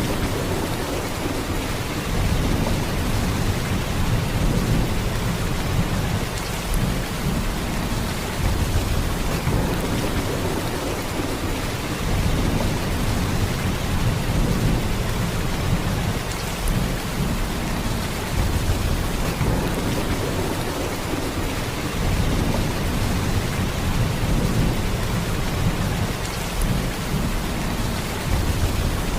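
Heavy rain pouring steadily, a continuous dense downpour with a deep low rumble under it that swells and eases every few seconds.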